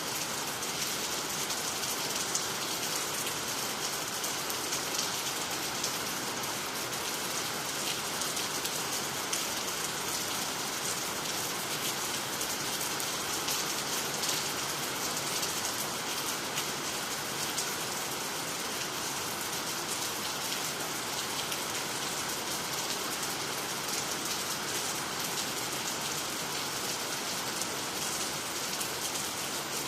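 Steady rain falling, a dense even hiss of drops with fine patter, hitting water, trees and the ground.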